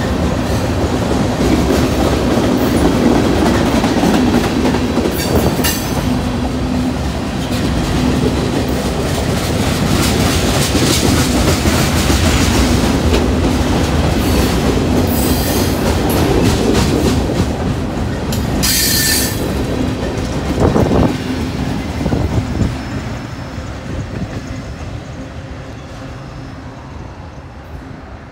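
Freight cars of a long Norfolk Southern train rolling past close by, wheels clacking over the rail joints and rumbling, with a few brief high screeches from the wheels. The end of the train passes and the sound fades away over the last few seconds.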